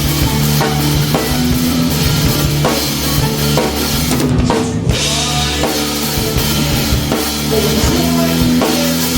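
Live rock band playing an instrumental stretch, with the drum kit loudest (kick, snare and cymbals) over sustained bass and guitar. The cymbals cut out briefly about four and a half seconds in.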